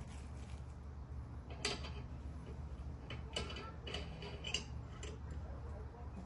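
Hand tools and mower parts being handled during spindle work: a scattering of short, irregular clicks and clinks, about half a dozen, over a low steady hum.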